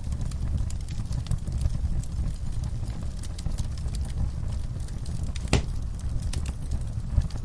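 Wood fire burning in a fireplace: a steady low rumble of the flames with scattered crackles and small pops, one louder pop about five and a half seconds in.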